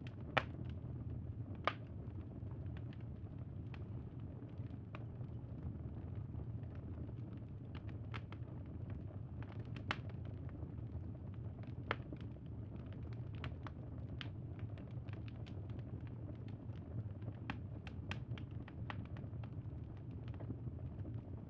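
Campfire burning: a steady low rumble with irregular sharp crackles and pops throughout, the loudest two in the first two seconds.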